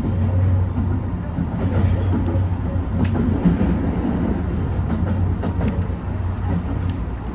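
JR HB-E210 series hybrid diesel train running along the line: a steady low hum and rumble, with occasional faint clicks of the wheels over rail joints.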